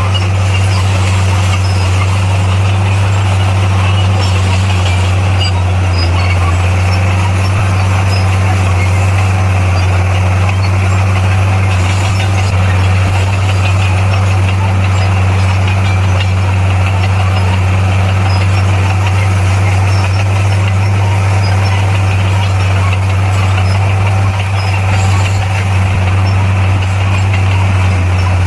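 Heavy construction machine's diesel engine running steadily under load, a loud, unchanging low drone.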